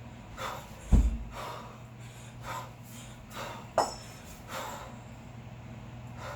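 Kettlebell lifter breathing hard and forcefully in short, repeated huffs during a long-cycle set with two 16 kg kettlebells. A heavy thud comes about a second in and a sharp knock near the middle.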